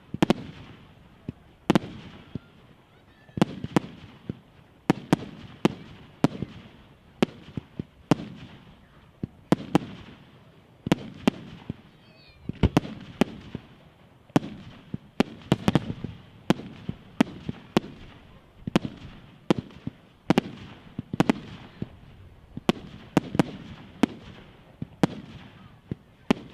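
Fireworks display: an irregular series of loud firework bangs, about one or two a second, each with a short echoing tail.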